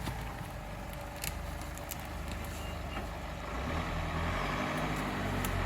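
Off-road 4x4 engine running under load in mud, pulling harder and getting louder about four seconds in, with a few sharp clicks and knocks.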